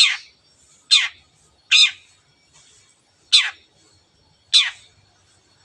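Long-tailed shrike giving its harsh 'teot' call five times, about a second apart. Each call is a short screech that drops sharply in pitch.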